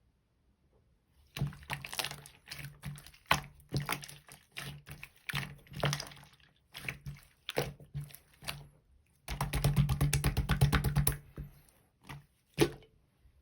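Clear slime being squeezed and pressed by hand, giving irregular bursts of sticky clicks and pops that begin about a second and a half in. About two-thirds of the way through comes a fast run of crackling clicks.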